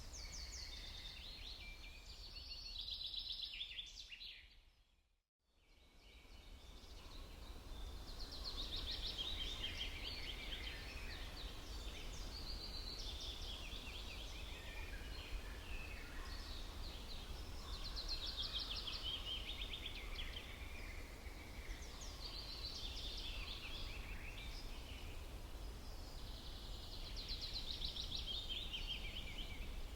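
Songbirds singing: bright, rapid trilled phrases repeated every few seconds over a low steady rumble. The whole sound fades out almost to silence about five seconds in, then fades back up.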